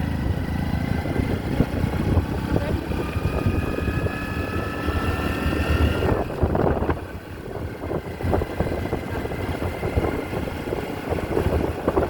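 Motorcycle engine running on the move, with road and wind noise; its note rises slowly over the first six seconds, dips briefly, then settles into steady running.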